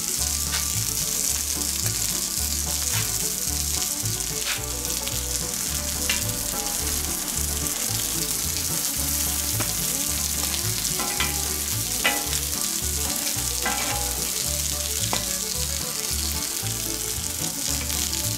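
Bacon-wrapped fish sticks and burger buns sizzling steadily in bacon fat on a wood-fired steel fire plate, with a few sharp clicks as metal tongs handle the food.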